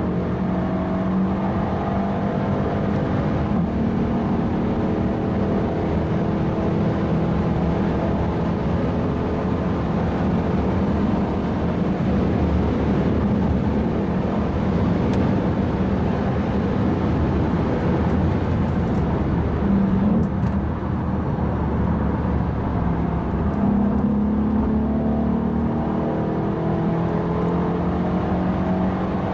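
Mercedes E63 AMG's twin-turbo V8 heard from inside the cabin while driving, with steady road and tyre noise. The engine pitch climbs gently a couple of times, near the start and again towards the end, without a hard kickdown.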